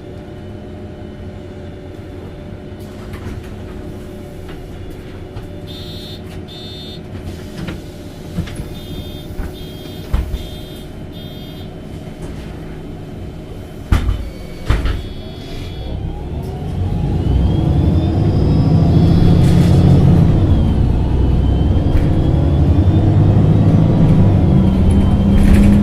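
MAN NG273T4 articulated city bus with an LPG engine idling, a series of short high beeps sounding twice, then two sharp thumps about 14 s in. From about 17 s the engine is loudly under load and rising in pitch as the bus accelerates away.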